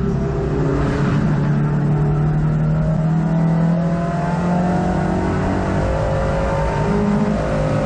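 Hot hatch race car's engine heard from inside the cabin, running hard under load. Its pitch climbs steadily over the second half as the car accelerates.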